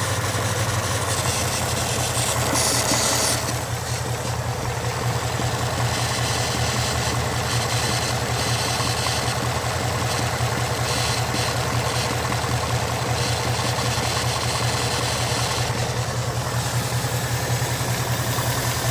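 Car engine idling steadily with a mechanical clacking noise from the engine bay.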